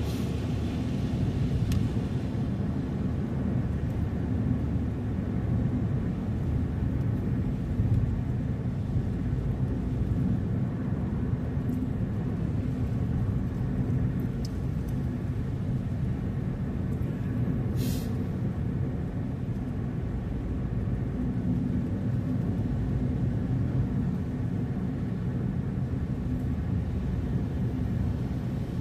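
Car driving along, a steady low rumble of engine and road noise. A short sharp click is heard once, about two-thirds of the way through.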